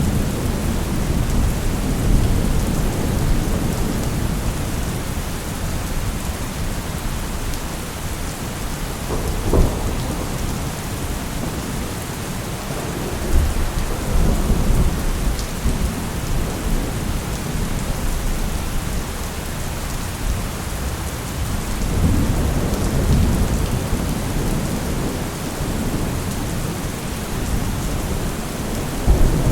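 Steady rain falling, with low rumbles of thunder swelling up a few times.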